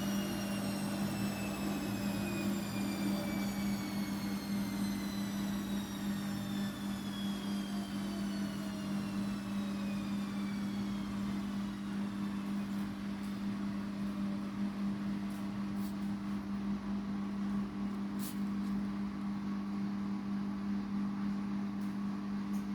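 Bosch washing machine's motor whine falling slowly in pitch over the first half or so as the drum spins down, over a steady low hum that carries on throughout.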